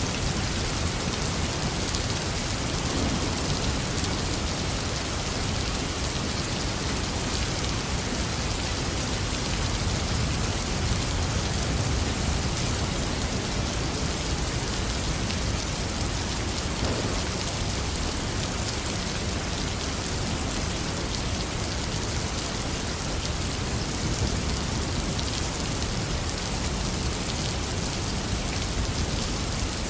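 Heavy rain falling steadily, an even downpour hiss with a full low end and no distinct thunderclap.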